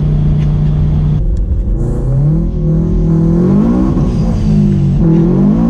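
Car engine running steadily, then after an abrupt change about a second in, accelerating with its pitch climbing and dropping back several times, as when revving up through the gears.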